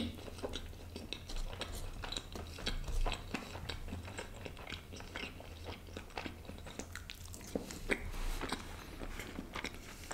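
Close-miked mukbang eating sounds: a person biting into and chewing a sauce-dipped piece of stuffed kulcha flatbread, a steady run of small wet mouth clicks and smacks, with one sharper click right at the start.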